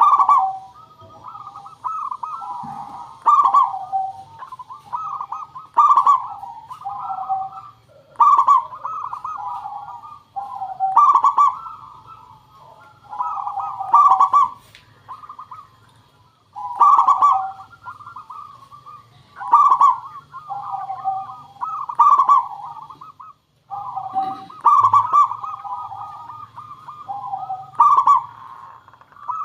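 Zebra doves (perkutut) cooing: a bright, rolling phrase about every two and a half to three seconds, with softer coos in between, used as a lure call to draw other perkutut to answer. A faint low hum and a thin steady high tone sit underneath.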